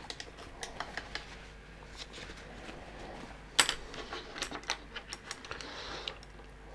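A run of small, irregular clicks and taps, with one louder click about three and a half seconds in: paint pots, brushes and tools being picked up and set down on a hobby painting desk.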